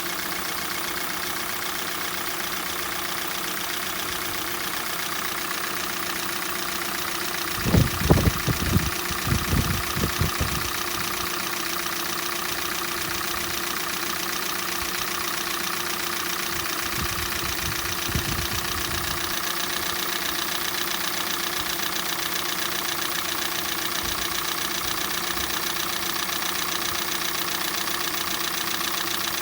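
Hyundai/Kia G4NA 2.0-litre four-cylinder petrol engine idling steadily with a knock, which the owner says comes on a cold engine and fades as it warms up. A few dull thumps come about eight seconds in and again around seventeen seconds.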